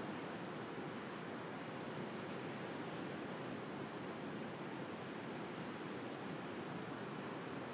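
Steady noise of sea surf, with faint, scattered crackles from a wood bonfire.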